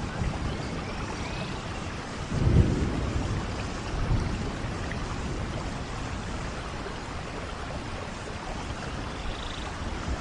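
Steady rainfall in a forest, with low rolls of thunder about two and a half seconds and four seconds in, the first the louder.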